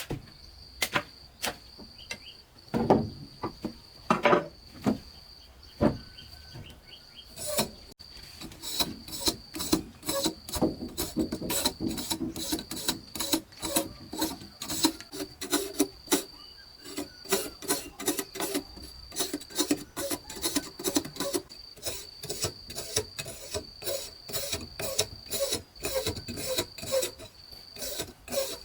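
A steady high insect trill with brief breaks, under repeated knocks and scrapes of handwork. A few loud separate knocks come in the first seconds; from about eight seconds in they turn into a fast, steady run of clicks and scrapes.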